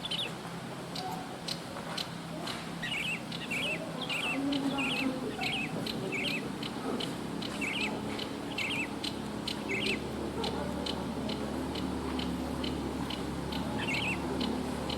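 Wild forest birds calling: short chirps repeated about twice a second, over a steady run of sharp ticks.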